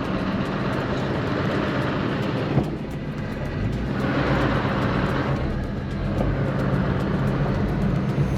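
Peugeot 306's 1.6 8-valve petrol engine running at a steady pitch, with two swells of rushing noise over it.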